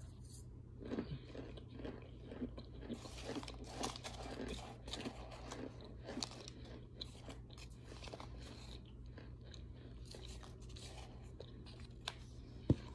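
Close crunching and chewing of a mouthful of mixed powdered starch, with many small, sharp crackles and a spoon scraping the plastic container. One sharp click near the end.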